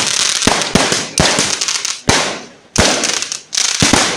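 Fireworks going off in a rapid, uneven series of sharp bangs, about eight in four seconds, each followed by a crackling hiss.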